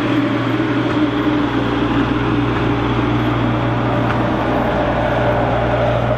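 Engine of a snow-clearing machine running steadily at constant speed, an even drone with no change in pitch.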